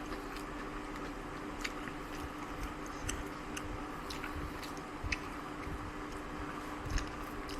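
Close-up eating sounds: a person chewing food, with scattered small wet mouth clicks. A faint steady hum sits underneath.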